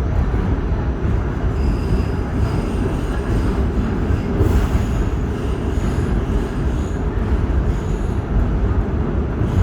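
R46 New York City subway train running through a tunnel: a steady, loud low rumble of wheels on rail, with faint high-pitched wheel squeal coming and going.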